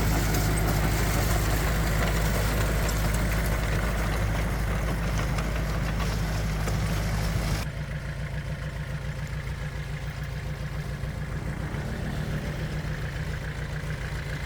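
Heavy earthmoving machine's diesel engine running steadily. A little over halfway through, the sound drops abruptly to a quieter, low, evenly pulsing idle.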